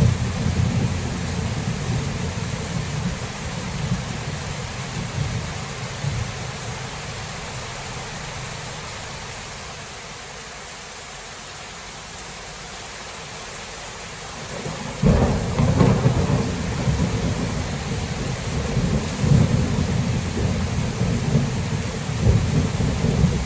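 Steady rain with thunder: a low rumble dies away over the first several seconds, then about fifteen seconds in a sudden thunderclap breaks and keeps rolling and rumbling.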